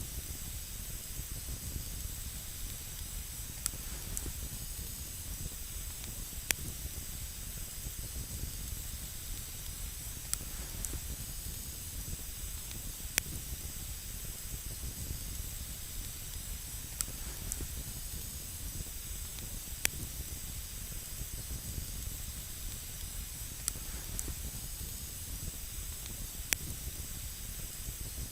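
Wood campfire burning with a steady hiss, a sharp crackle or pop every few seconds.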